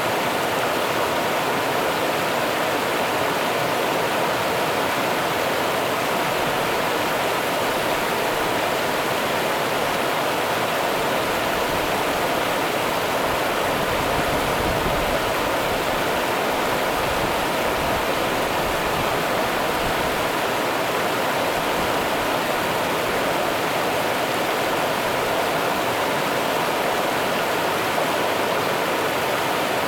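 Rio Grande river water running, a steady rushing noise with no break.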